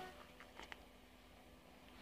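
Near silence: the faint, steady drone of a distant approaching diesel train, with a few short high chirps about half a second in.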